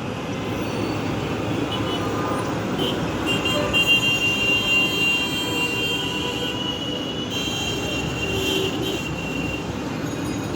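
City traffic noise, with a horn sounding in a steady tone for a few seconds around the middle.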